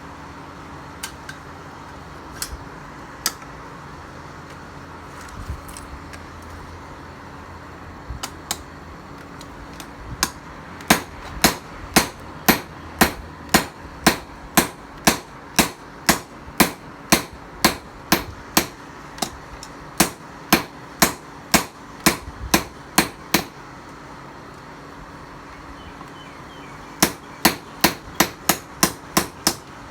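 Hammer striking metal: a few scattered blows, then steady blows about two a second for some thirteen seconds, a pause, and a quicker run of blows near the end. A steady low hum runs underneath.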